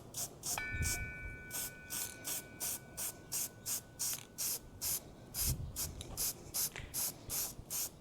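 Aerosol can of spray paint sprayed in quick short bursts, about two to three a second, with low wind rumble on the microphone twice.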